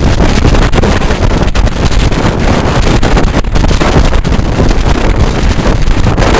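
Strong storm wind buffeting the microphone: a loud, continuous rumble with no let-up.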